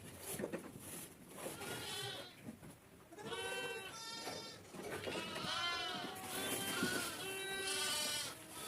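A mixed herd of sheep and goats bleating, several calls in quick succession, some overlapping.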